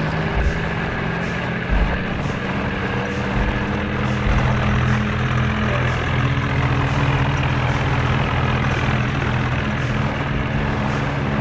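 Tractor diesel engine running steadily at a fairly constant speed, with small shifts in pitch.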